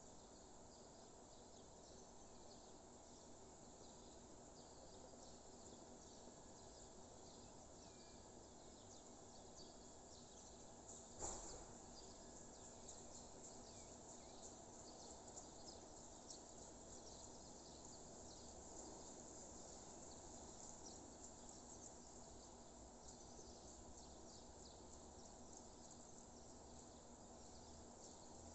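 Very faint outdoor nature ambience: a steady low hiss with many tiny high-pitched ticks, and one sharp click about eleven seconds in.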